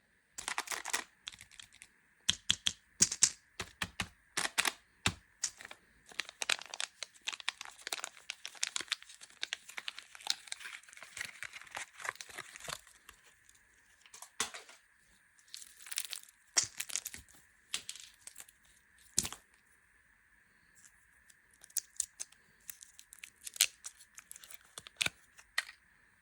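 Plastic candy wrappers being crinkled and torn open by hand: irregular bursts of crackling and ripping, densest in the first half and sparser towards the end, over a faint steady high hum.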